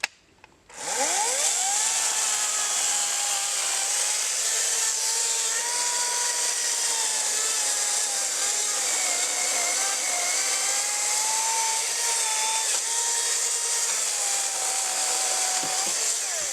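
Small chainsaw spinning up, cutting into a log for about fifteen seconds with its pitch wavering and dipping under load, then winding down near the end.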